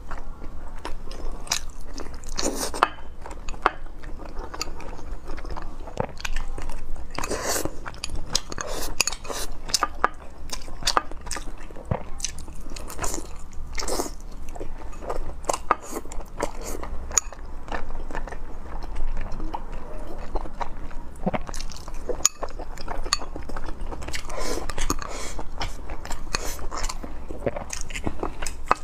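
A person biting into and chewing braised pork belly with rice, with frequent short, sharp mouth clicks.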